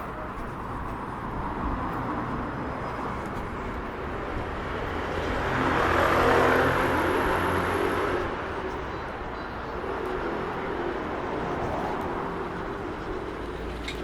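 City street ambience with a motor vehicle passing by. It rises to its loudest about six seconds in, then fades away.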